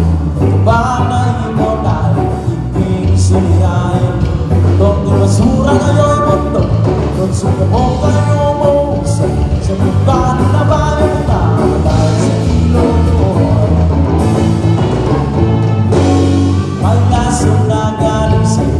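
A band plays a song with a lead singer, amplified through a PA system, loud and steady throughout.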